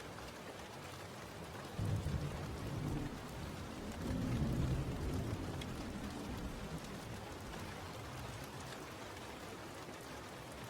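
Steady rain falling, with a roll of thunder that breaks in suddenly about two seconds in, swells again a couple of seconds later and then fades away.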